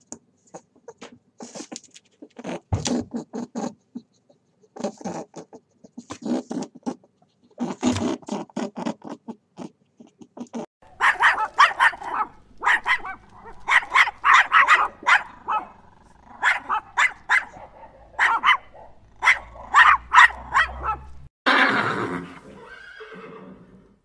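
A string of animal calls: short, low, spaced-out calls for about ten seconds, then a long run of a puppy's rapid high yelps in quick groups, and near the end one louder horse neigh that fades away.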